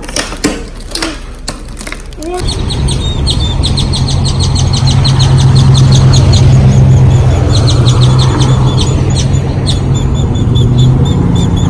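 Birds chirping repeatedly over a loud, steady low rumble, after a few clicks and knocks in the first couple of seconds.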